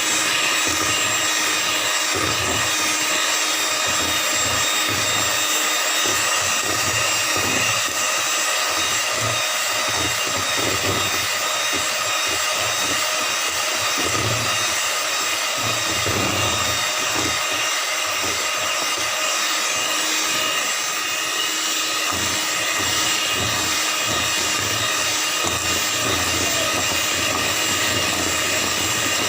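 Electric hand mixer running steadily, beating a cake mixture that is turning pale and thickening.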